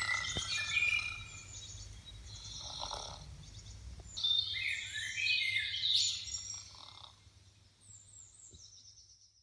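Songbirds chirping and trilling, busiest in the middle and fading near the end, with two soft snores about three and a half seconds apart.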